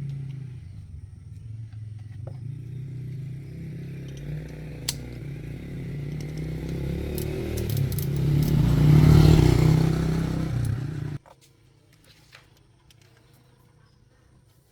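Car engine running, its sound building to a loud peak about nine seconds in, then stopping abruptly about eleven seconds in.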